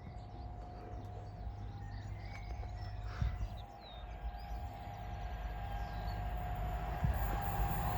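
Railtour train hauled by Class 57 diesel locomotives approaching the level crossing: a low rumble and a steady whine that grow louder towards the end.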